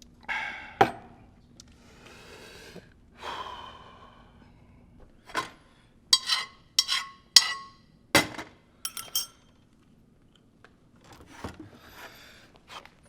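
Household handling sounds: soft rustling swishes, then a quick run of sharp ringing clinks like glass or crockery being set down, then a heavier knock and a few lighter taps.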